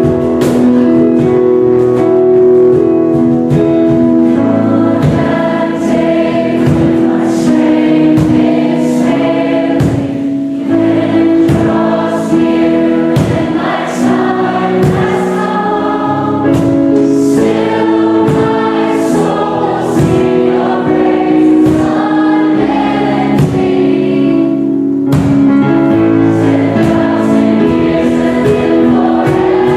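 Choir singing a worship song with instrumental accompaniment, steady and full throughout.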